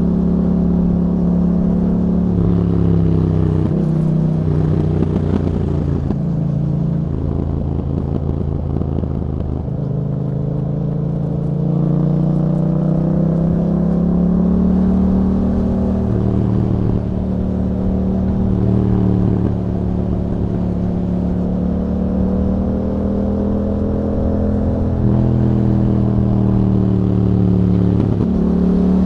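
2021 Yamaha MT-07's 689 cc parallel-twin engine running through an Akrapovic exhaust with YAHOM dB killers. It revs up and down while riding, its pitch stepping sharply at several gear changes.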